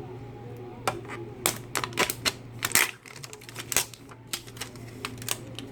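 Irregular sharp clicks and taps of small plastic toy pieces and packaging being handled, some in quick clusters, over a steady low hum.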